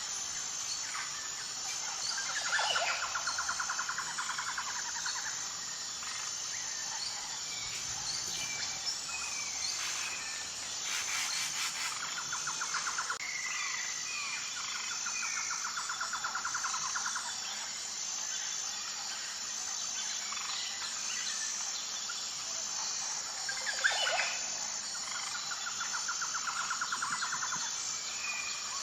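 Wild birds calling and singing, with short chirps and whistles and a rapid trill about a second and a half long that repeats three times. A steady high insect drone runs underneath.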